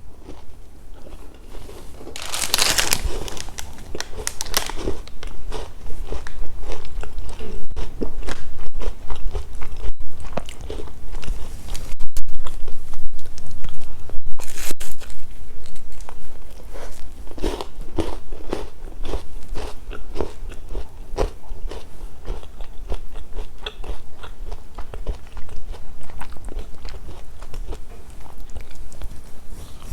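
Close-miked biting and chewing of crunchy chocolate snacks: a loud crunch about two and a half seconds in, then crisp crackling chews. The sound cuts out briefly a few times near the middle, typical of a badly connected microphone.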